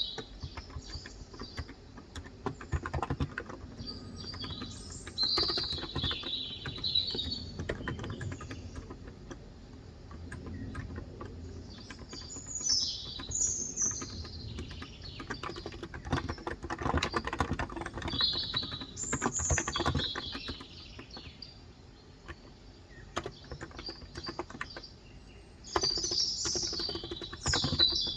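Steady typing on a COX Endeavour electrostatic-capacitive (Topre-style) 35 g tenkeyless keyboard, with small birds chirping in short bursts several times over it, loudest near the end.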